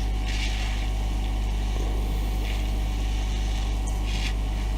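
Hot air rework gun blowing steadily with a low hum, heating the screen adhesive, while a few short scratchy sounds come from the metal spudger working under the glass.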